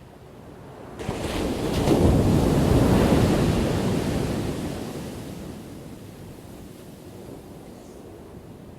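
An ocean wave breaking: the surf surges suddenly about a second in, is loudest for the next couple of seconds, then washes out and fades to a low steady rush.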